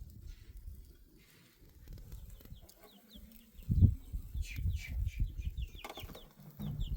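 Bird calls: many short, high, falling chirps in quick series, starting a little past the middle, over a low rumble. A single sharp knock sounds just before the chirps begin.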